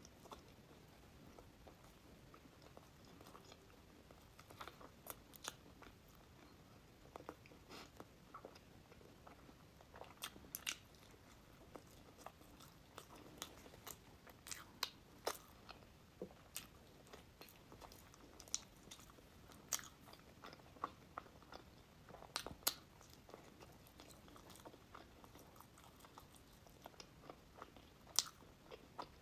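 Close-miked eating: bites of pastry and sweets crunching and crackling, with chewing in between. The crunches come irregularly, a few every couple of seconds.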